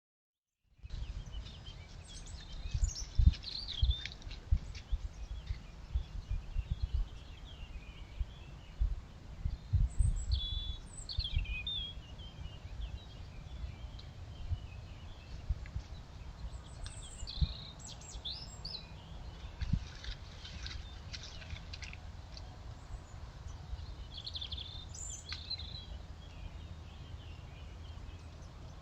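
Small woodland birds chirping and trilling on and off, over a steady low rumble broken by irregular dull low thumps.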